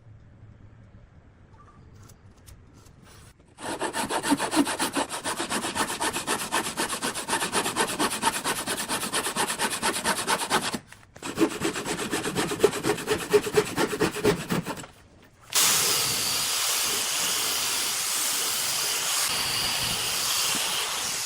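Wood being sawn, with rapid repeated rasping strokes in two runs broken by short pauses. About 15 seconds in, a steadier, hissier cutting noise takes over. The first few seconds are quiet.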